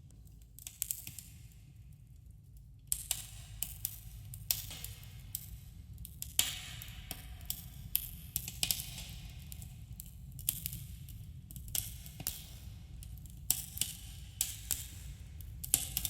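Wood campfire crackling, with irregular sharp snaps and pops, a few of them louder, over a steady low rumble, and a slight echo from the cave around it.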